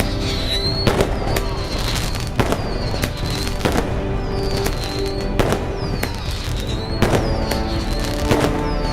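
Fireworks going off in a series of sharp bangs, one every half second to a second, over music playing steadily in the background.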